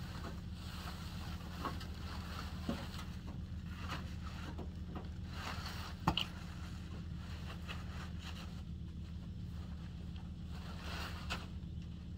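A steady low engine hum, with scattered light clicks over it.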